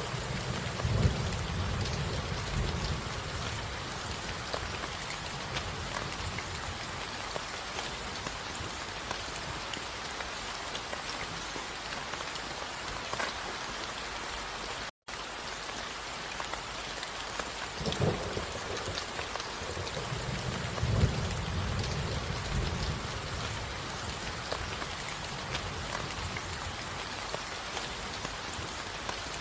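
Steady rain falling, with two low rolls of thunder, one near the start and one about twenty seconds in. The sound cuts out for an instant halfway through.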